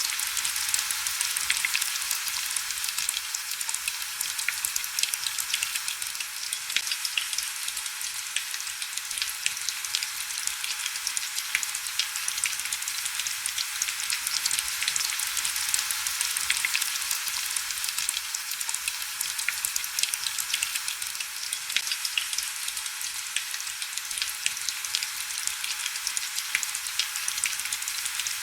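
Steady heavy rain: a dense, even hiss packed with small drop ticks, mostly high-pitched with little low rumble.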